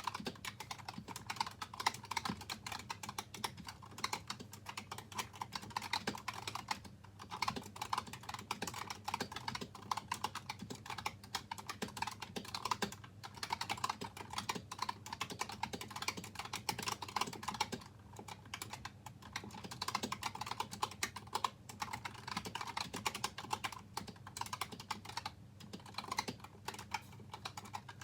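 Typing on a Razer Huntsman Tournament Edition keyboard with linear optical switches, each key damped by two rubber o-rings. Fast, continuous keystrokes, broken by a few short pauses.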